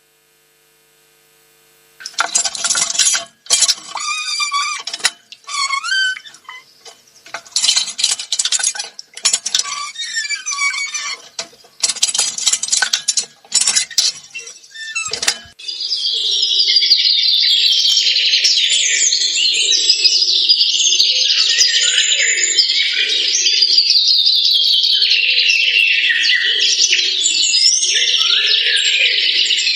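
Birdsong from a nature sound track: scattered chirping calls with pauses, then, about halfway through, a dense continuous chorus of many birds chirping at once.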